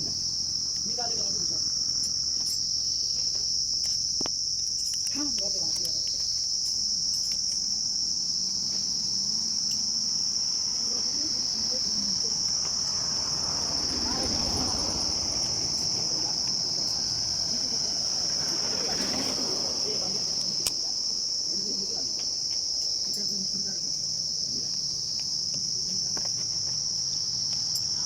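Insects chirring in a steady, unbroken, high-pitched drone, with a few faint clicks now and then.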